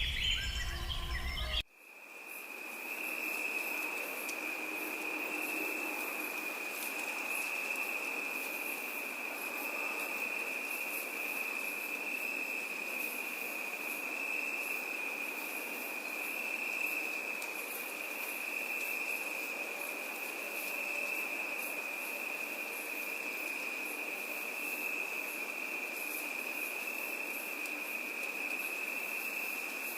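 Birdsong over a low rumble cuts off abruptly about two seconds in. A steady insect chorus then fades in: one unbroken high-pitched trill held at an even pitch, with faint fluttering higher chirps over a soft background hiss.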